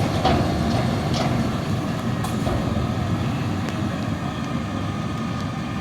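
Garbage truck's engine running steadily, with a few clanks and knocks in the first second or so.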